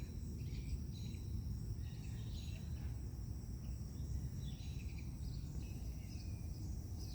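Outdoor morning ambience: a steady low rumble under a thin, continuous high insect trill, with scattered short bird chirps.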